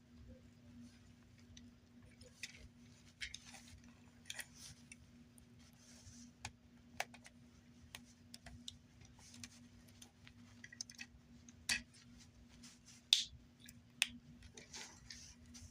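Faint, irregular plastic clicks and taps from handling a Transformers action figure and its 3D-printed upgrade parts, with a few sharper clicks in the last few seconds. A faint steady hum sits underneath.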